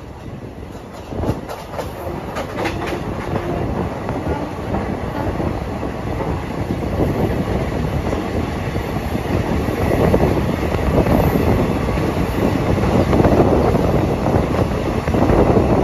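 Passenger train running on the rails, heard from on board: clickety-clack of the wheels over the track with a steady rumble that grows louder. A few sharp clicks come in the first few seconds.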